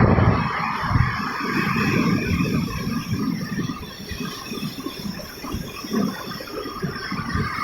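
Ocean surf washing on the shore: a rough, rushing noise that eases off around the middle and builds again near the end.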